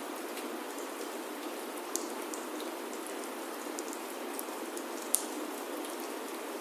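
Steady rain falling on a wooden chalet roof, with scattered sharp clicks and pops. The loudest pop comes a little after five seconds in.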